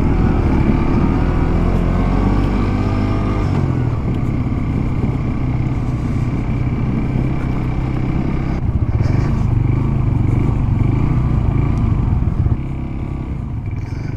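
Motorcycle engine running as the bike is ridden. Its note shifts in pitch over the first few seconds, then holds steady, and the level drops about twelve and a half seconds in.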